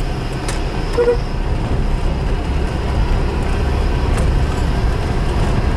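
Mitsubishi Kuda's 1600 cc petrol engine, running on a Toyota Kijang 7K carburettor, pulling steadily at low road speed, heard from inside the cabin as a steady low drone with road noise. A few faint clicks and a brief faint tone sound over it.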